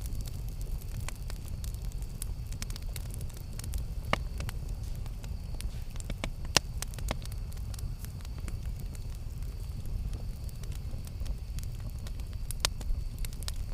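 Campfire crackling: scattered sharp pops over a low steady rumble, the loudest pop about six and a half seconds in.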